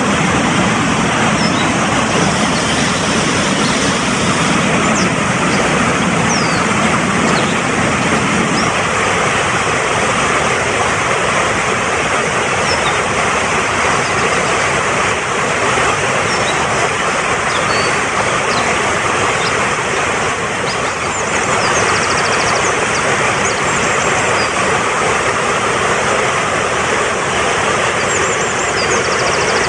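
Fast-flowing mountain stream rushing steadily, with scattered high bird chirps over it that come thicker near the end. A deeper rumble in the water eases about a third of the way in.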